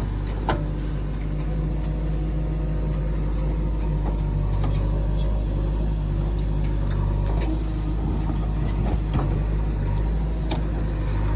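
Heavy diesel engine running steadily, with a few sharp knocks spread through.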